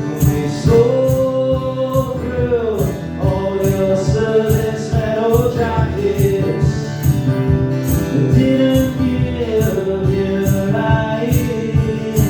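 Acoustic guitar strummed in a steady rhythm under a male voice singing a long, drawn-out, wordless melody line.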